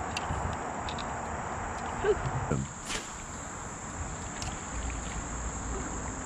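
Insects trilling steadily in one high, unbroken tone, with a short voice-like sound about two seconds in and a click about three seconds in.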